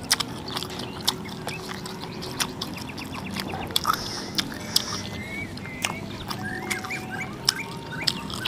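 Mouth noises of people eating: irregular wet smacks, clicks and chewing, with no talk.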